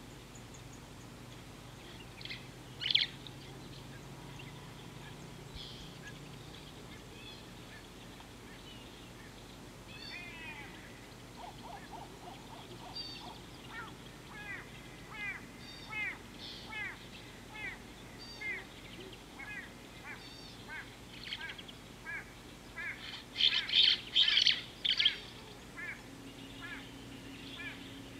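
Wild birds calling: a few scattered calls at first, then from about ten seconds in a steady series of short chirps, roughly one or two a second, ending in a loud burst of calls near the end.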